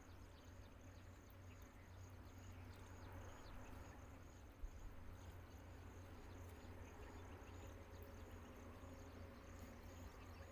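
Faint, steady high-pitched insect chirring with a slight pulse, over a low rumble.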